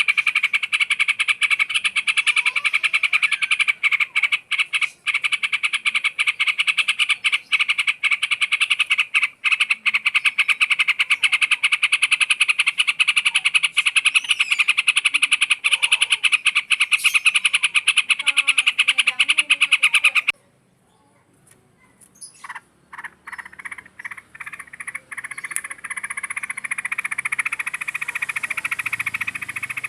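A dense, very fast pulsing chirr from calling animals, frog-like, with faint whistled bird notes over it. It cuts off abruptly about two-thirds of the way in, then comes back in scattered clicks that build up to the steady chirr again.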